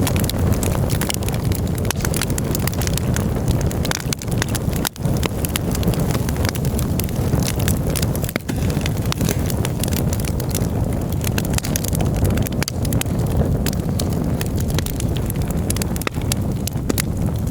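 Campfire crackling, with dense irregular pops and snaps over a steady low rumble.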